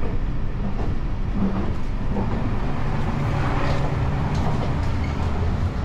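Steady low running noise inside the vestibule of a JR Shikoku 8600 series electric train travelling at speed.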